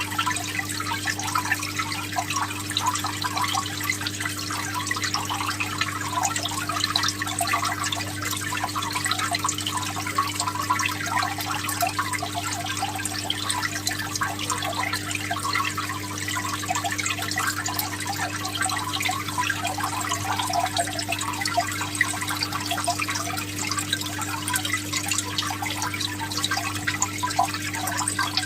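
Water trickling and splashing steadily, over a steady low hum.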